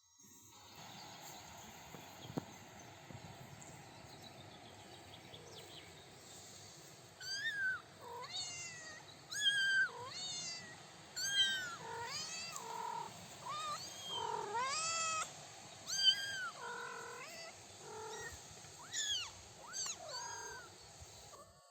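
Three-week-old kittens meowing: after a quiet stretch of about seven seconds, a run of about fifteen short, high-pitched meows, each rising and falling, continuing until near the end.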